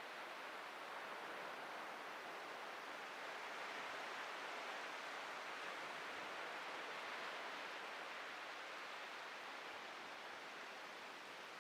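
Ocean surf washing on a beach: a steady hiss that swells gently in the middle and eases off near the end.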